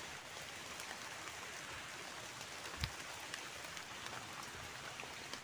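Light rain pattering faintly and steadily on leaves, with a single soft knock a little under three seconds in.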